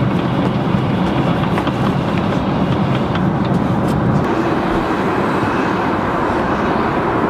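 Steady cabin noise of an airliner in cruise flight: an even rush of air and engine noise.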